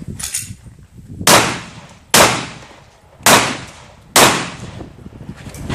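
Four pistol shots fired in a practical shooting course of fire, roughly a second apart, each a sharp crack with a short decaying tail.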